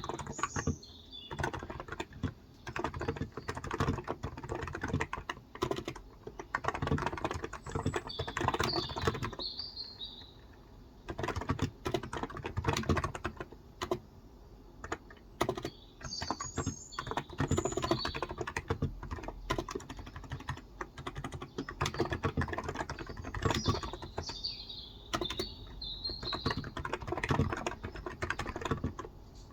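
Typing on a Cox Endeavour electro-capacitive tenkeyless keyboard with light 35 g keys, in quick runs of keystrokes broken by short pauses. Birds chirp in the background several times.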